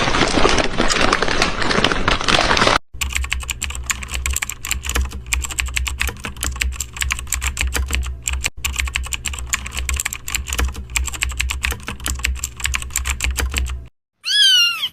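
Rapid typing on a computer keyboard, a fast run of clicks over a low hum, breaking off briefly about three seconds in. Near the end, a cat meows once with a falling pitch.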